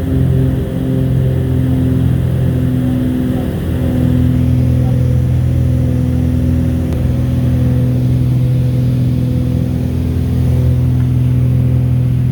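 Small aircraft engine running steadily at high power, heard from inside the cabin: a steady droning hum over a low rumble.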